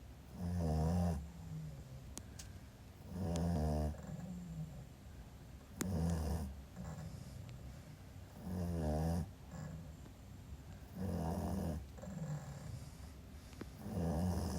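Pekingese puppy snoring, six loud snores at an even pace of about one every two and a half seconds, with softer breaths between them.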